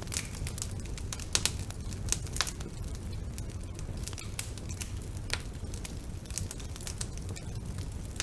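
Wood fire burning in a fireplace: irregular sharp crackles and pops over a steady low rumble of the flames, with a cluster of louder pops about a second and a half in.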